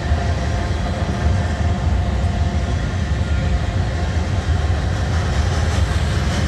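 Freight train rolling past, a steady low rumble of its cars' wheels on the rails.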